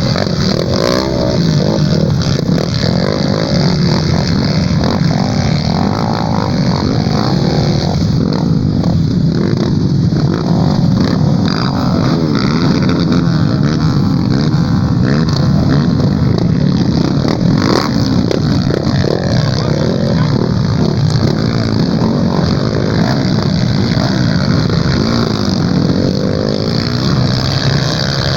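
Dirt bike engines revving hard, the pitch rising and falling again and again as the throttle opens and closes.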